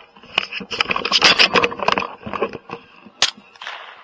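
Dense rustling and scraping with many small clicks, as of gear and clothing being handled, then a single sharp crack a little after three seconds in.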